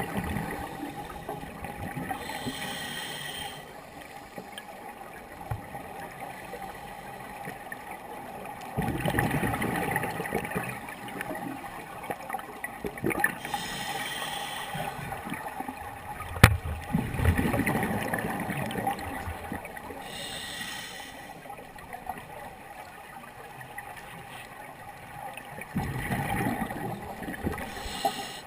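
Scuba diver breathing underwater: a hiss from the regulator on each inhale and a gurgling rush of bubbles on each exhale. The breaths come every several seconds, and there is one sharp click about sixteen seconds in.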